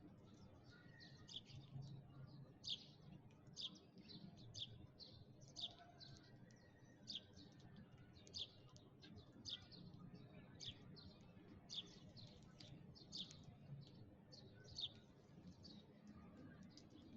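Sparrows chirping: short, high chirps repeated about twice a second, some louder than others.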